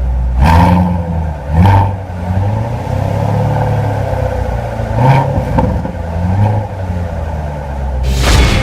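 2014 Chevrolet Corvette Stingray C7's 6.2-litre LT1 V8 running through its exhaust with a low, steady rumble, blipped a few times with short revs. A loud rushing burst comes near the end.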